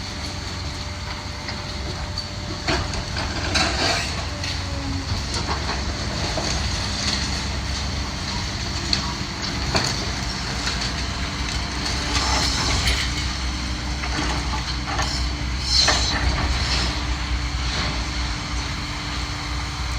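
Demolition machine at work: a steady low engine rumble with scattered crunches and clanks of brick and debris being torn down and dropped.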